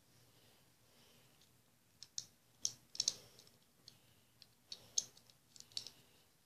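Small hard toy pieces being pulled and worked apart by hand: a quiet start, then a run of sharp, irregular clicks and snaps from about two seconds in.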